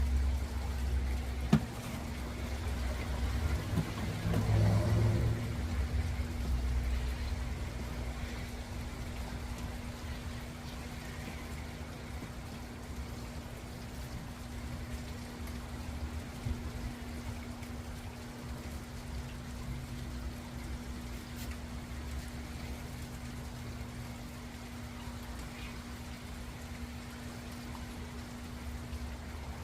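Steady rain falling, with a low rumble on the microphone and a sharp click about a second and a half in.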